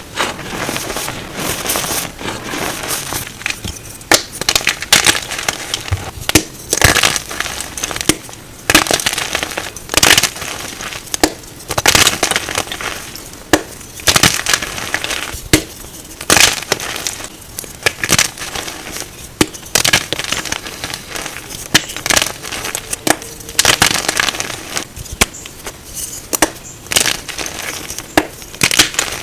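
Blocks of reformed gym chalk being crushed: a run of sharp, crunchy cracks, about one every one to two seconds, with crumbling and crackling between them.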